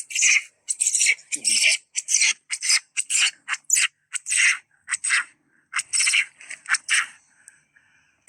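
Recorded rock hyrax (dassie) distress call played back to lure hyraxes out of the rocks: a rapid series of short, shrill, high-pitched cries, about two a second.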